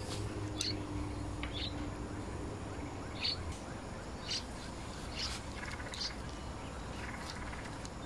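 Small birds chirping: short, high chirps spaced about a second apart. A faint low hum fades out about halfway through.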